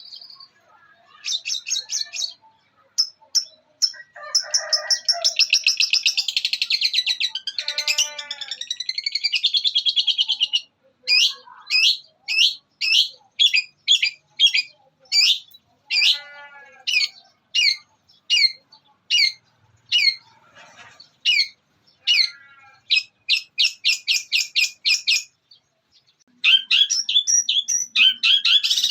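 Long-tailed shrike (cendet) singing a varied mimicking song, with fill phrases copied from other birds such as house sparrows. It opens with fast, dense chattering runs, then gives a long series of separate sharp notes about two a second, and returns to rapid chatter near the end.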